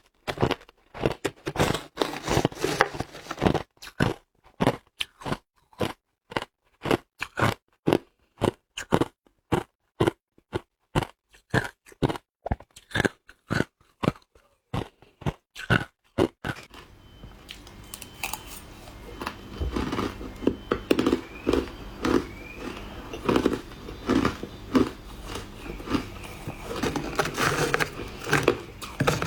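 Hard ice being bitten and chewed: a long run of sharp crunches, about two or three a second. About halfway through, a steady background hiss comes in under the crunching.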